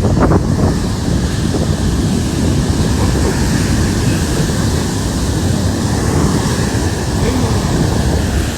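Wind buffeting the microphone over the continuous rush of heavy ocean surf.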